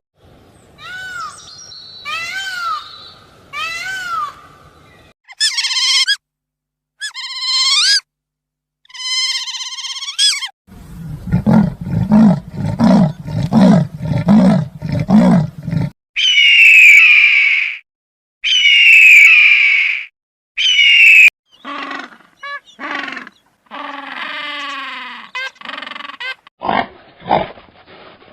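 A run of different animal calls played one after another with short breaks between them. Repeated high arching calls come first, then a series of deep rhythmic grunts or roars about halfway through, then three long, loud, shrill calls.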